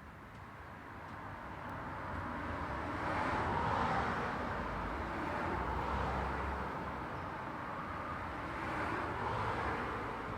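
Road traffic: vehicles passing one after another, their tyre and engine noise swelling and fading in a steady wash of sound.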